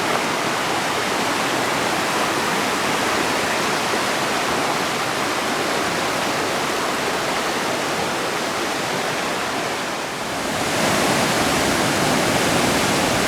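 Flood-swollen river rushing past in a steady, loud wash of water noise, swelling a little louder about three-quarters of the way through.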